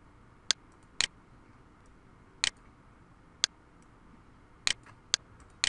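Computer mouse clicking: about seven short, sharp clicks at irregular intervals, one of them a quick double.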